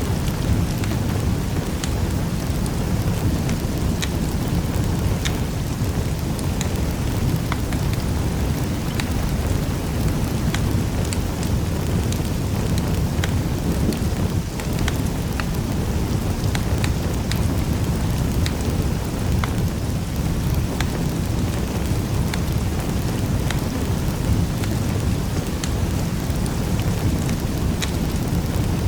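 Wood fire crackling in a fireplace: a steady low rumble of burning with frequent sharp pops and snaps scattered throughout.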